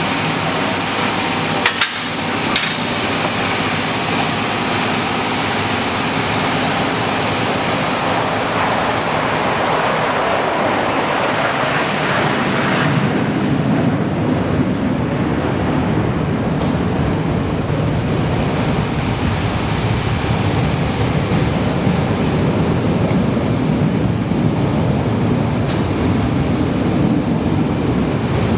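Steady rushing noise with a couple of sharp knocks about two seconds in.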